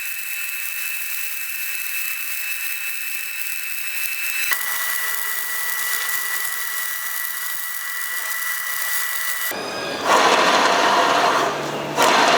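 Power tool running with a steady high-pitched whine, its pitch dropping about four and a half seconds in. Near the end it gives way to two louder, rougher bursts of machining noise.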